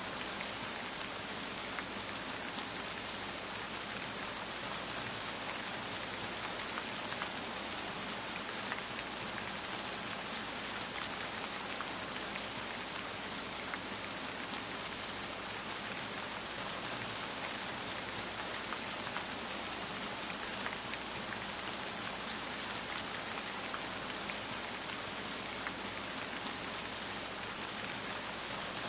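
Steady rain falling, an even hiss with scattered faint drop ticks on a surface.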